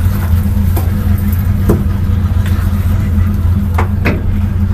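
Stock car V8 engine idling with a steady low hum, with a few sharp clicks of the safety harness being buckled and adjusted.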